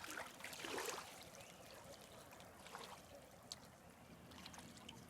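Faint water splashing and trickling as paddles on a small homemade pontoon boat move through the water, strongest in the first second, with scattered small drips and splashes after.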